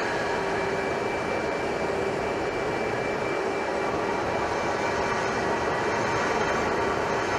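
Jet aircraft engine noise: a constant rushing sound with a few faint steady whining tones, unchanging in level.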